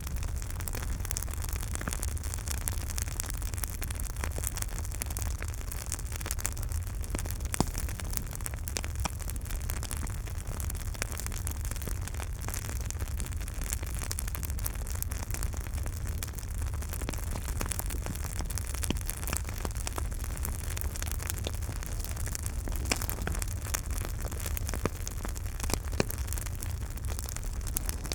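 Campfire burning, with a steady crackle of small snaps and a few louder pops scattered through, over a low rumble.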